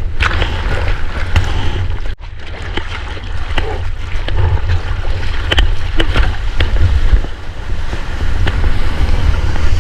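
Wind buffeting an action-camera microphone out in the surf, with water splashing and lapping around the surfboard. The sound cuts out for an instant about two seconds in.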